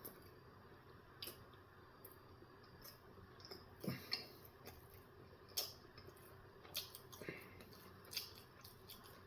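Faint, scattered mouth clicks and smacks of someone chewing close to the microphone, about seven in all, over quiet room tone.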